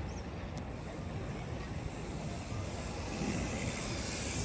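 Steady rumble and hiss of a tour boat under way, growing a little louder near the end.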